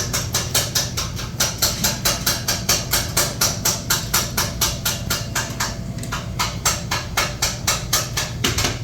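Rapid, even chopping of cooked chicken, a metal blade striking a hard surface about four times a second, with a couple of short pauses, over a low steady hum.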